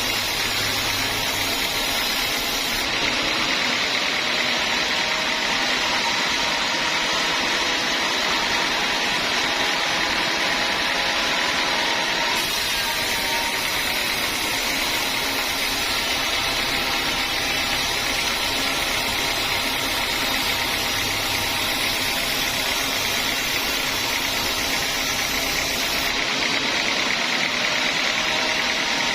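Sawmill saw and its drive running steadily with a constant hissing machine noise.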